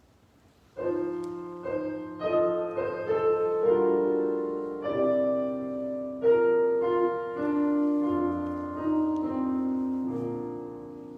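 Piano music begins under a second in, with chords and a melody struck at an unhurried pace and left to ring, then dies away near the end.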